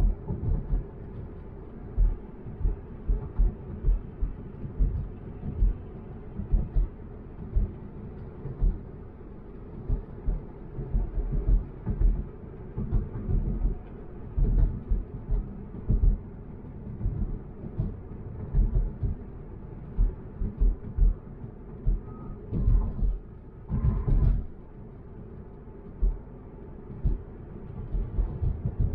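Low rumble of a car driving, with frequent irregular low thumps over the road noise.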